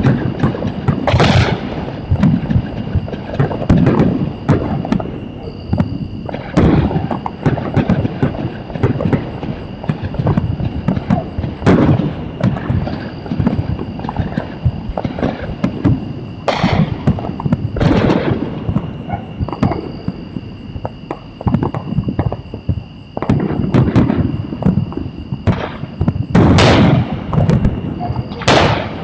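Fireworks going off continuously: a dense rumble and crackle of many overlapping bursts, with sharp louder bangs every few seconds. A faint steady high whine runs underneath.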